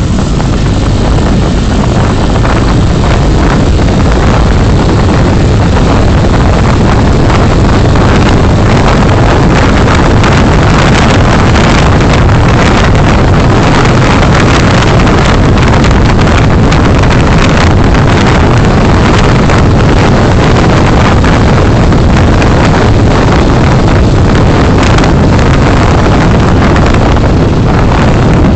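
Loud, steady wind and road noise from a moving car, recorded by a dashcam, with frequent brief buffets of wind on the microphone.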